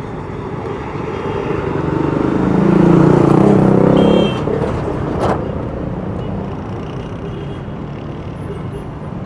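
Street traffic with a motor vehicle passing close: its engine builds to the loudest point a few seconds in, then drops away suddenly about four seconds in. A single sharp click follows about a second later, over the steady hum of traffic.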